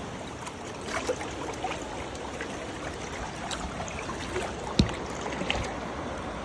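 Floodwater running steadily, with scattered small clicks and splashes and one sharp knock about three-quarters of the way through.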